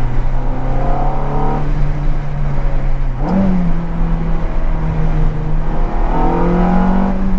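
Ferrari F430's flat-plane V8 through an aftermarket Fi exhaust, heard from inside the cabin with the intake close behind, running at low revs with a steady drone. About three seconds in, the revs jump in a quick blip and then settle at a higher steady pitch.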